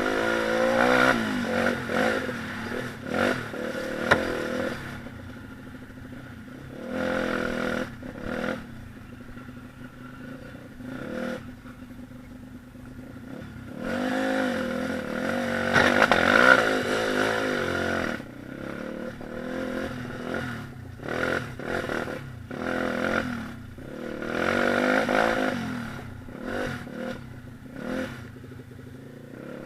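Single-cylinder four-stroke pit bike engine being ridden, its revs rising and falling in repeated throttle surges, the strongest about halfway through. A sharp clack sounds about four seconds in.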